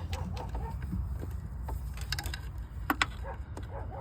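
Hand tools clicking and clinking against engine parts several times, the two sharpest close together about three seconds in, over a steady low hum.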